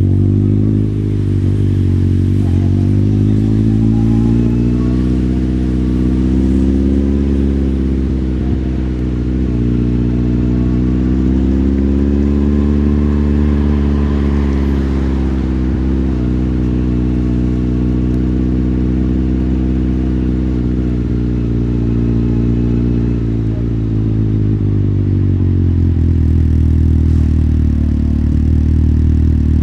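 Motorcycle engine running while riding, its pitch rising and falling several times as the bike speeds up and eases off. Near the end it settles lower and steady.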